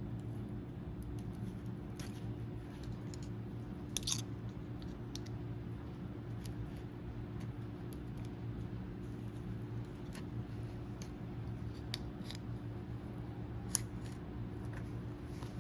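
Scattered light metallic clicks and scrapes of a small screwdriver working a new seal onto a hydraulic cylinder piston, over a steady low hum.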